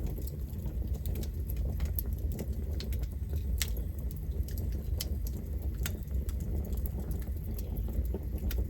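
Campfire burning: the wood crackles with irregular sharp snaps and pops, a few louder than the rest, over a steady low rumble.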